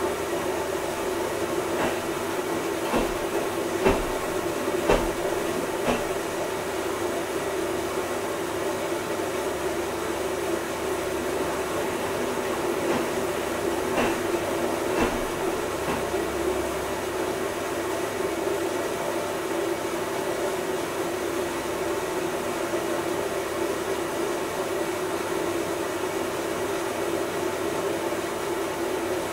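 Washing machine running with a steady motor hum, and a few short knocks about a second apart from the turning drum.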